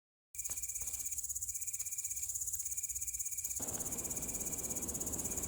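Grasshopper buzzing: a high, rapidly pulsing trill of about eight pulses a second, held steady.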